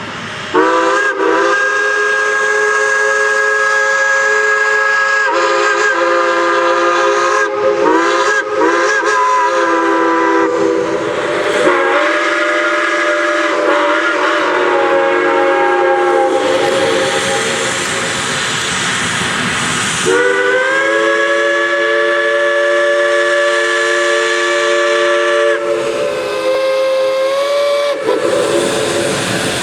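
Geared steam logging locomotive's chime whistle blowing a series of long and short blasts, several notes sounding together, with steam hissing in a gap about halfway through.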